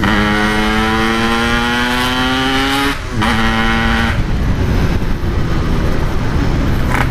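Yamaha RX-King two-stroke single, with a loud aftermarket PK3 expansion exhaust, accelerating: the engine note climbs steadily through one gear, drops at an upshift about three seconds in, holds briefly, and then the throttle closes about four seconds in, leaving a steady rushing wind and road noise.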